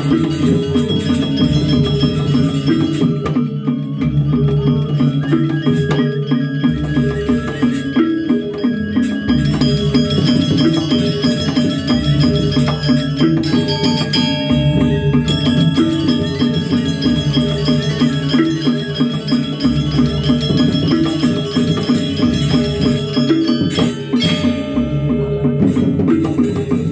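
Balinese gamelan playing a fast, continuous stream of struck bronze metallophone notes, with ringing gong tones underneath.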